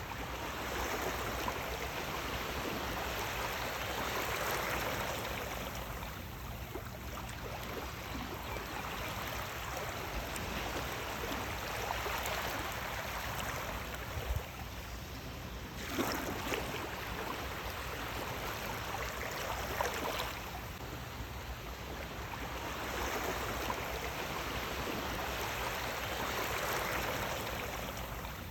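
Rushing water in a steady wash that swells and eases every few seconds, with a few brief sharp sounds in the middle.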